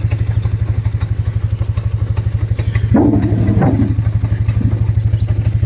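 Four-wheeler engine idling with a fast, even putter, about a dozen beats a second. About three seconds in, a brief higher, wavering sound rises over it.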